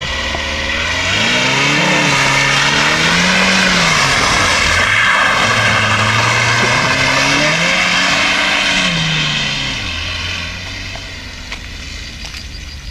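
FSO Polonez Caro engine revving hard while the car drifts in circles on wet asphalt, the revs climbing and falling several times over a hiss of spinning tyres. About ten seconds in the revs drop and the engine grows quieter as the car drives off.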